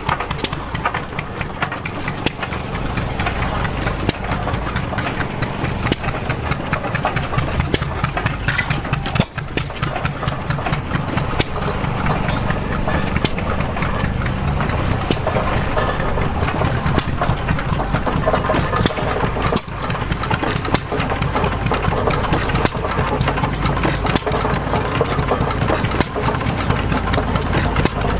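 Antique gas engine running steadily, its firing beat making a dense, even run of sharp knocks.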